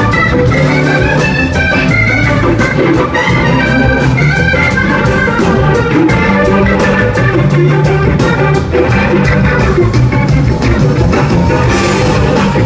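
A band playing instrumental music: a melody line over bass and a steady drum beat.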